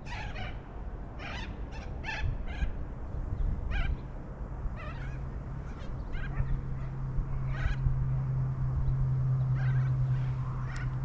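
Birds giving short calls again and again at an irregular pace, over a steady low hum that comes in about halfway through.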